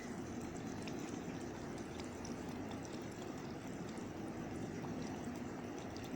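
Steady rushing noise like running or trickling water, with faint light ticks over it.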